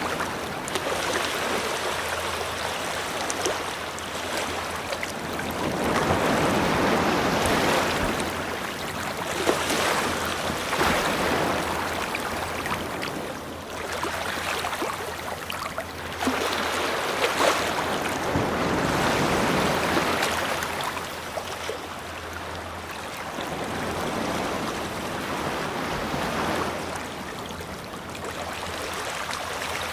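Ocean waves breaking and washing up a beach, the surf swelling and falling away every four to six seconds.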